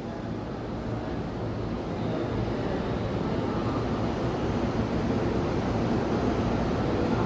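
Electric commuter train rumbling steadily, growing gradually louder, with a low hum underneath.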